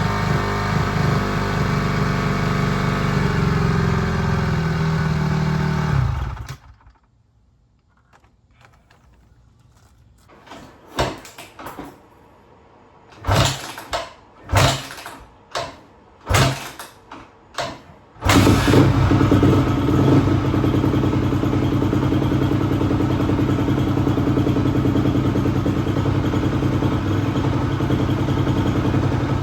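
2004 Honda CRF250R single-cylinder four-stroke dirt bike engine running, then stopping about six seconds in. After a quiet pause come about six separate kick-start strokes about a second apart, and the engine catches and runs steadily. The engine now runs after its over-tight valves, which had left it with no compression, were adjusted.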